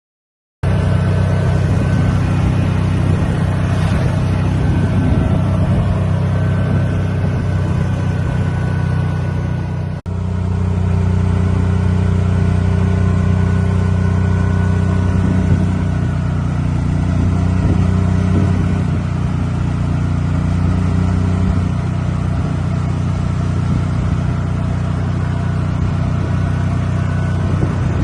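A motor vehicle running at a steady speed with an even, low engine drone. It starts abruptly under a second in and is cut and resumes about ten seconds in.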